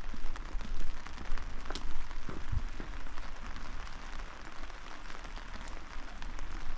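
Steady rain falling, with many close drops ticking sharply, and a single low thump about two and a half seconds in.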